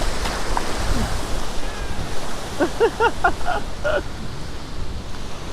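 Ocean surf washing in, with wind rumbling on the microphone. About two and a half seconds in there is a quick string of short, high, arching calls.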